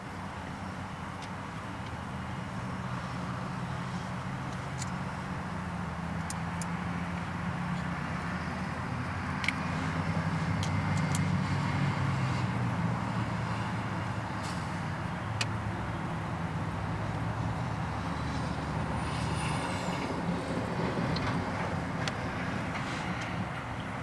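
Steady low hum of passing motor traffic, swelling to its loudest around the middle, with a few short high bird chirps near the end.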